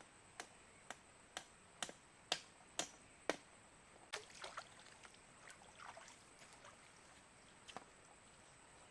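A run of sharp knocks or taps, about two a second, then a few irregular clicks with faint scraping, over a steady faint high-pitched whine.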